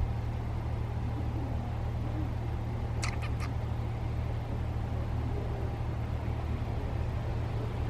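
A steady low engine hum, with three quick high chirps a little after three seconds in.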